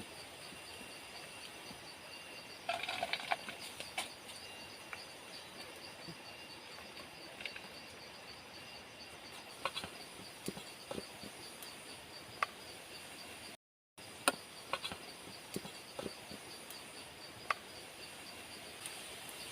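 Forest insects chirping steadily in high, pulsing tones, with scattered light clicks and knocks. A cluster of clicks comes about three seconds in, and the sound cuts out for a moment about two-thirds of the way through.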